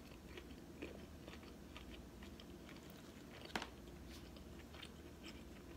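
Faint close chewing of a mouthful of boiled shrimp: soft wet mouth clicks, with one sharper click about three and a half seconds in.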